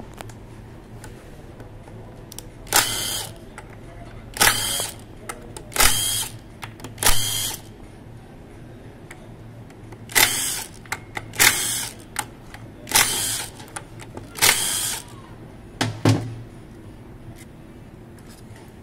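A power tool run in about nine short bursts, each lasting under a second, with pauses of one to three seconds between them, over a steady low hum.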